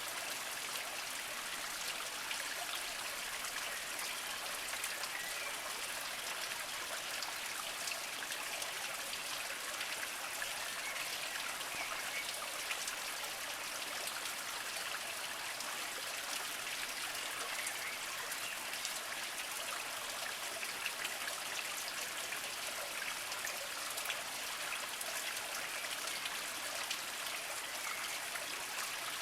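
Small mountain spring trickling and splashing over mossy rocks, steady, with fine droplet patter throughout.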